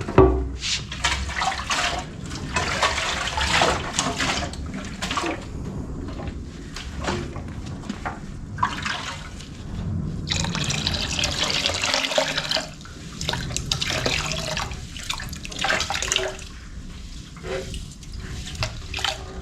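Water running and splashing as a motorcycle's metal fuel tank is rinsed out, flushing out loose rust left after a vinegar soak. It is at its most continuous for a couple of seconds past the middle.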